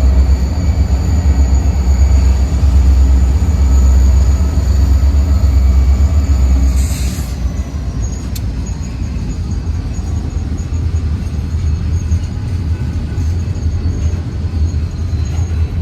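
Freight train passing close by: a heavy, steady low rumble for about the first seven seconds, a brief hiss, then a lighter steady rolling noise of cars on the rails.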